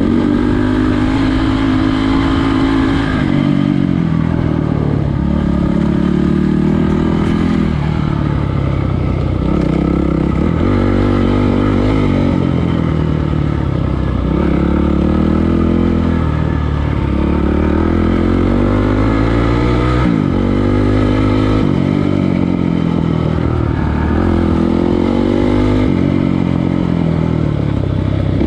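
Trail motorcycle engine running hard, its revs climbing and dropping back again and again every few seconds as the throttle and gears are worked.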